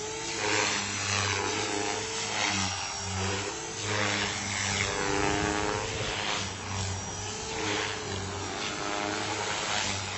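450-class electric flybarless RC helicopter in flight: a steady motor and rotor whine whose pitch shifts slightly as it manoeuvres, with recurring rushes of blade noise.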